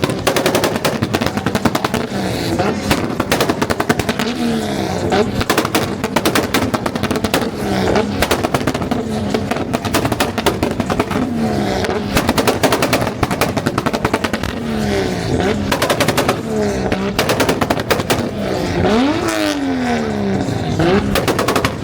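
Car engine revved up and down again and again, with rapid crackling pops from the exhaust throughout.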